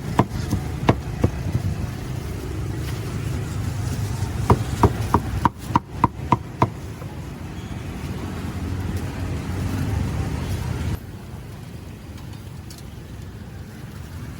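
Knife or cleaver chopping on a chopping board: a few sharp knocks near the start, then a quick run of about seven knocks around five to six seconds in. Under it is a steady street background with traffic noise, which drops abruptly to a quieter background about eleven seconds in.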